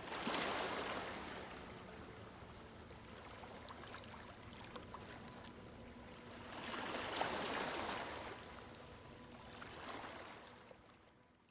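Sea waves washing in, a steady hiss of surf that swells and ebbs about three times, then fades out near the end.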